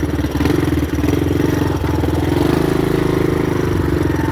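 Honda dirt bike engine running steadily at low revs, picking up slightly about two and a half seconds in.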